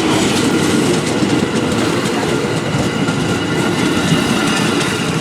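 A train rolling past close by: a steady loud rumble of steel wheels on the rails with a light clatter.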